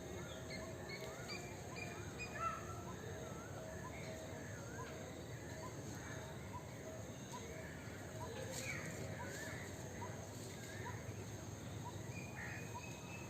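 Several birds chirping and calling in a morning chorus: many short notes that rise and fall, with a small note repeating at an even pace.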